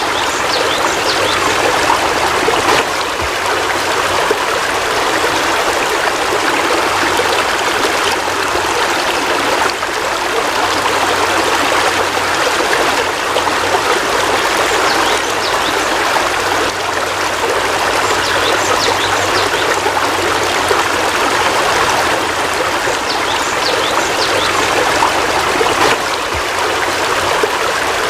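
Heavy rain falling steadily, an even, continuous downpour.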